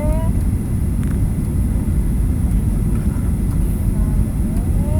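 Steady low rumble of airliner cabin noise, heard from inside the cabin. A short rising pitched sound, like a voice, comes once at the start and again near the end.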